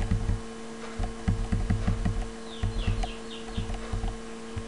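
Birds chirping, with a quick run of short falling chirps about two and a half seconds in, over a steady electrical hum and repeated dull low thumps.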